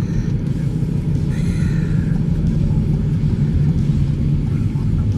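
Wind buffeting the microphone, producing a loud, steady, low rumble.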